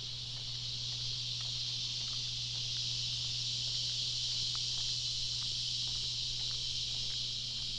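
Steady, high-pitched chorus of insects buzzing continuously, swelling slightly mid-way, over a steady low hum.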